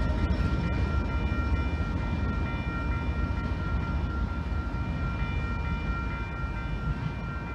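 Freight train rolling past, its low rumble slowly fading as it moves away, with several steady high-pitched ringing tones over it.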